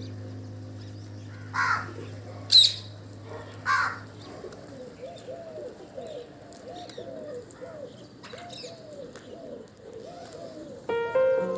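Pigeons cooing, a run of repeated rolling coos. Three loud, sharp calls from another bird come in the first few seconds.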